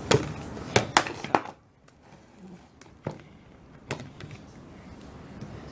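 Sharp plastic clicks and knocks from a salad spinner's basket and lid being handled and set down: four close together at the start, then two fainter knocks a couple of seconds later.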